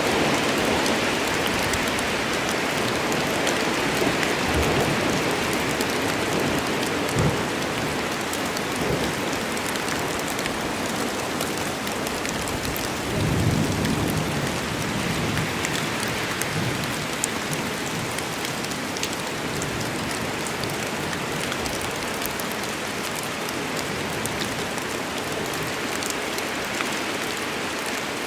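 Steady rain falling in a forest, a dense even hiss with scattered drop ticks. About halfway through comes a brief low rumble of thunder.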